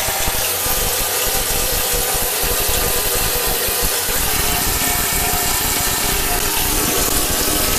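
Steady rush of running water, as from a bath tap.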